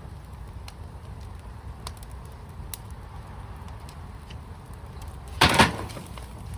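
Fire pit burning with a low steady rumble and scattered faint crackles, and a loud, brief double burst of noise about five and a half seconds in.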